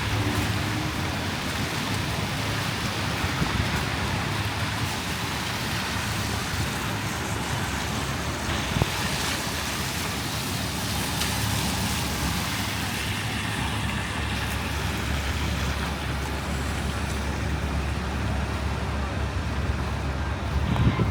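Steady city street noise in a snowstorm: passing traffic mixed with gusting wind rumbling on the microphone. There is one brief knock about nine seconds in.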